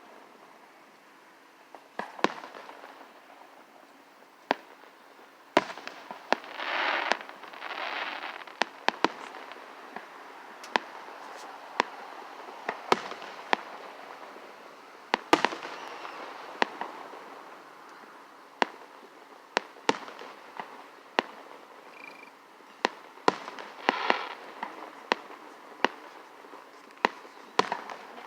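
Fireworks going off: sharp bangs at irregular intervals, some in quick clusters, with crackling bursts about seven seconds in and again near the end.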